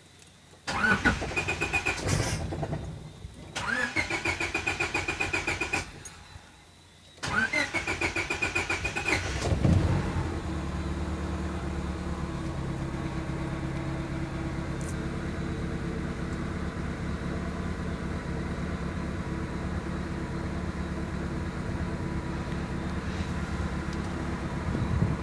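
SOHC Honda Civic four-cylinder engine, warm, run by a Speeduino standalone ECU: the starter cranks it in three separate bursts with a rising whine. It catches on the third, about ten seconds in, with a brief blip, then settles into a steady idle.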